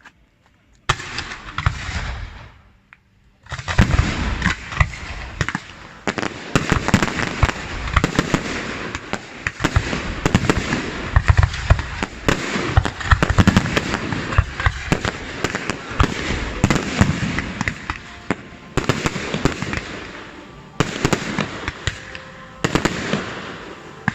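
A fireworks display going off: a first volley of bangs and crackling about a second in, then after a short pause a dense, near-continuous barrage of bangs and crackles.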